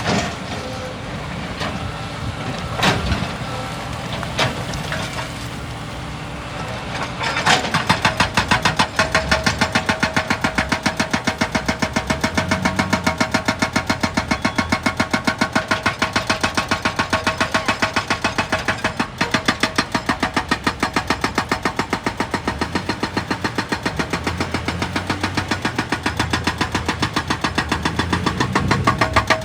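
An excavator's diesel engine runs with a couple of metallic knocks. About a quarter of the way in, its hydraulic breaker hammer starts pounding rock in rapid, regular blows.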